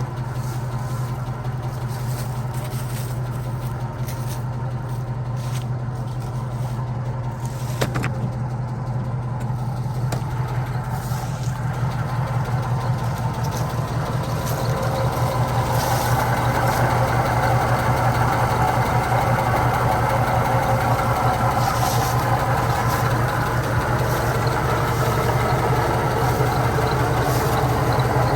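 The 1989 Chevrolet Caprice Classic's engine running steadily, with a sharp click about 8 seconds in. It gets louder from about halfway through.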